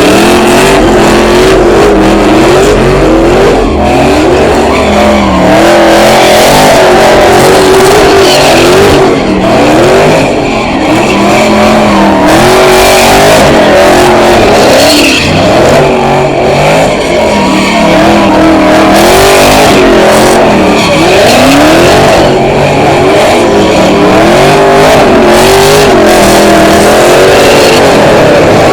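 Loud car engine revving up and down again and again, its pitch rising and falling every second or two, with tyres screeching: a car doing a burnout or spinning donuts.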